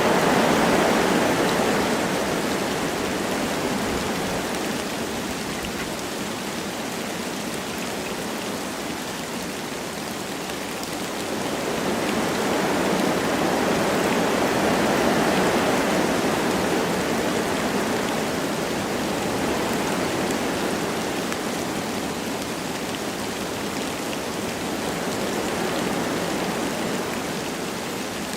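Wind blowing through forest trees with light rain falling, a steady rushing that swells and eases slowly, loudest at the very start and again about halfway through.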